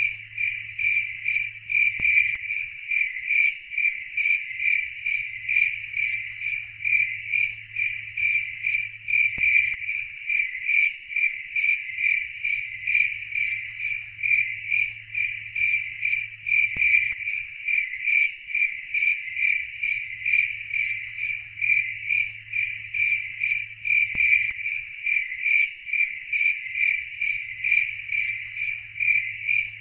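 Crickets chirping in a steady, even rhythm, about three chirps a second. Beneath them a faint low hum cuts in and out about every seven seconds, with a soft click at each change.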